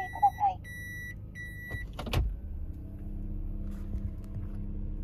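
Toyota Noah's in-cabin reverse warning buzzer beeping at a steady pace. It stops a little under two seconds in, and a single loud clunk follows; after that a steady low hum carries on.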